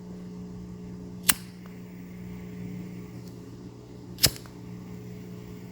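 A lighter being clicked twice, two sharp clicks about three seconds apart, over a steady low hum.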